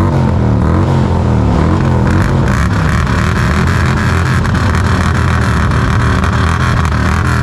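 Motorcycle engines revving loudly, their pitch rising and falling continuously.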